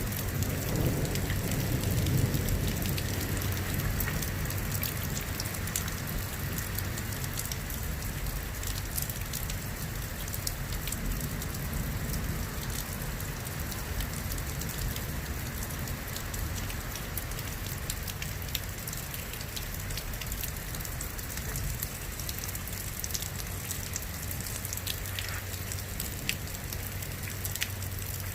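Steady rain falling, with many small drops ticking on a hard surface close by. A low rumble swells in the first few seconds and then settles.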